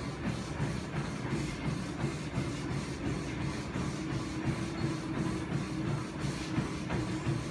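Gym cardio machine running through a warm-up: a steady motor hum with a regular mechanical beat about three times a second.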